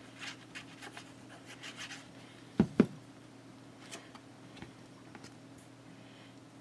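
Hands handling paper and a sticker: faint rustling and light scratching, with two quick knocks close together about two and a half seconds in.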